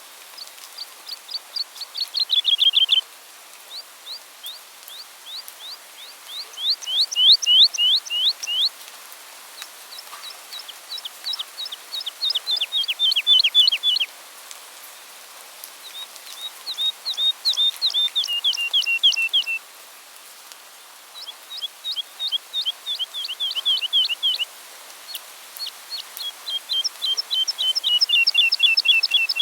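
A songbird singing repeated song phrases, each a quick series of sharp, falling whistled notes lasting two to four seconds, with pauses of about a second between them.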